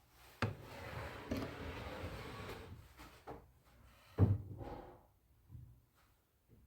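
Handling noises: a knock, about two seconds of scraping or sliding, then a few more knocks, the loudest about four seconds in.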